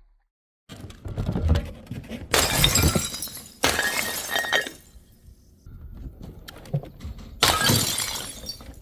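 Glass bottles shattering: three loud crashes, about two seconds in, about a second later, and near the end, each trailing off in ringing and tinkling shards, with lighter clinking and crunching of glass between.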